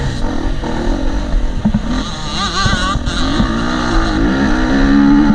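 KTM 250 SX-F four-stroke single-cylinder dirt bike engine under load, its pitch wavering and then climbing as the rider accelerates, over a steady low rush of wind on a helmet-mounted microphone.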